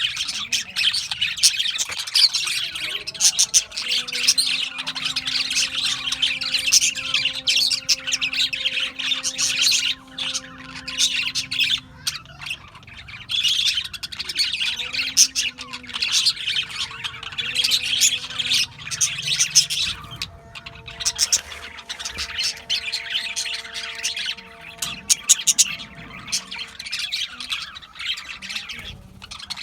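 A flock of budgerigars chattering and chirping continuously in a dense, busy warble, with a few short lulls. Faint steady low tones sound underneath.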